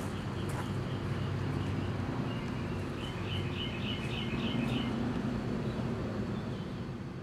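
Steady outdoor background noise with a bird chirping a quick run of short, high notes about three seconds in.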